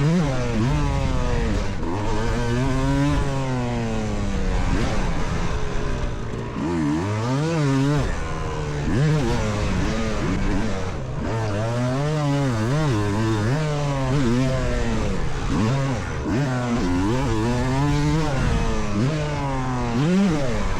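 Two-stroke motocross bike engine under hard throttle, its pitch climbing and dropping back over and over, every second or two, as the rider accelerates, shifts and backs off around a supercross track.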